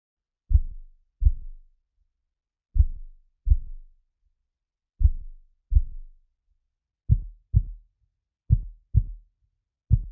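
Heartbeat sound effect: about six low double thumps (lub-dub) with silence between them, the beats speeding up as it goes.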